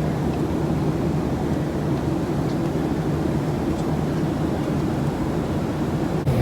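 Steady low drone of a jet airliner in flight, heard from inside the passenger cabin, with a short break just before the end.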